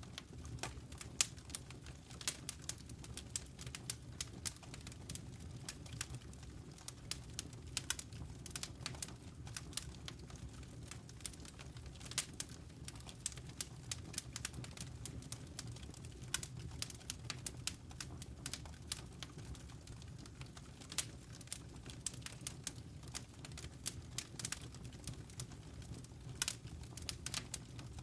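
Fire in a fireplace crackling: irregular sharp pops and snaps, several a second, over a low steady rumble.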